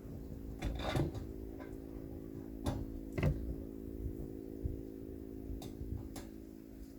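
A few scattered sharp clicks over a steady low hum.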